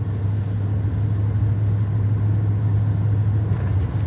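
1997 Ford F-250 HD pickup under way in third gear, its engine and drivetrain giving a steady low drone. Near the end the level drops slightly as the automatic transmission goes up to fourth without a hard shift.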